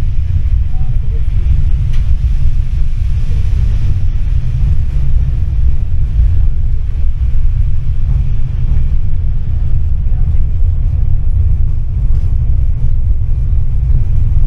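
Tram running, heard from inside the passenger cabin: a steady, loud low rumble with no breaks.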